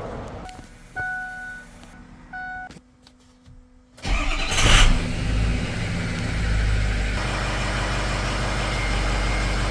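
Two short two-note electronic chimes, like a vehicle's warning chime, then about four seconds in an engine cranks and starts with a brief loud burst and settles into a steady idle.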